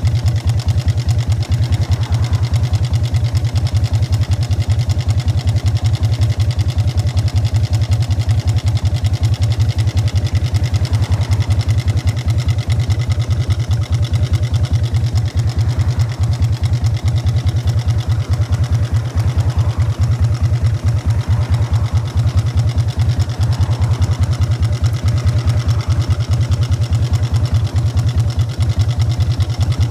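Exhaust of a 1999 Harley-Davidson Fat Boy's Evolution V-twin through Python mufflers, running steadily with a dense, even beat and no change in revs.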